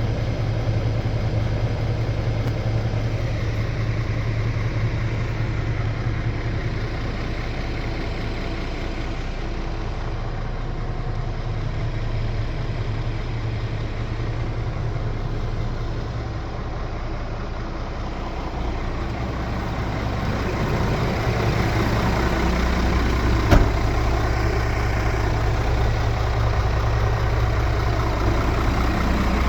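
Scania R450 truck's 13-litre inline-six diesel idling steadily, with a single sharp click about three-quarters of the way through.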